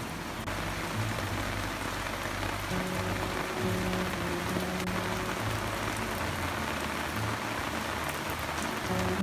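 Steady rain falling, an even hiss with no breaks. Soft background music of held low notes plays underneath.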